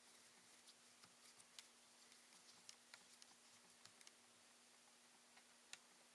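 Near silence with faint, irregular small clicks and ticks from laptop parts and small tools being handled, over a faint steady hum.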